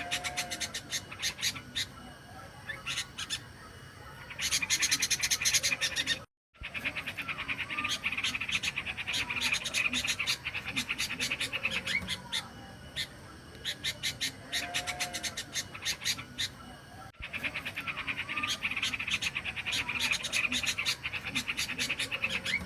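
Recorded yellow-vented bulbul (trucukan) song played as a bird lure: bouts of fast chattering trills with a few lower slurred notes. The sound cuts out completely for a moment about six seconds in.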